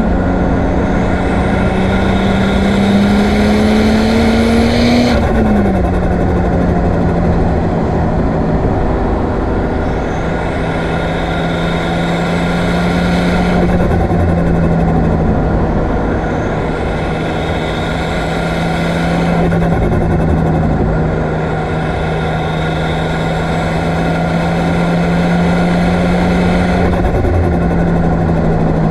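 The single-turbo RB25DET Neo straight-six of a 1998 Nissan Skyline R34 GT-T, running under way. Its pitch climbs for the first five seconds, drops sharply about five and a half seconds in, then holds nearly steady at cruise, with a soft hiss swelling and fading every few seconds.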